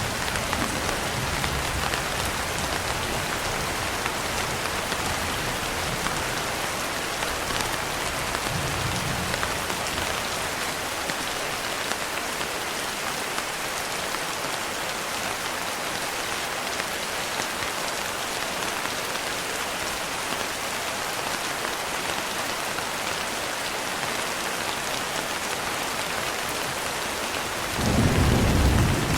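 Steady, heavy rain falling, with a low roll of thunder in the first several seconds that fades away. A louder thunder rumble rises suddenly near the end.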